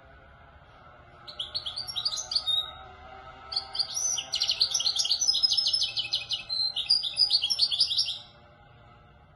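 European goldfinch singing a fast, twittering Marrakchi-style song in two phrases: a short one just over a second in, then a longer one of about five seconds.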